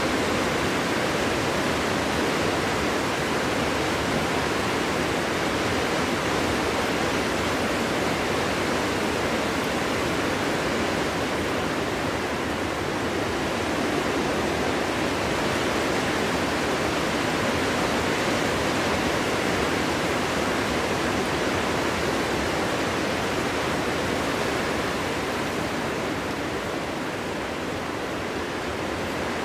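Steady wind blowing through a forest, an even rushing noise that eases slightly near the end.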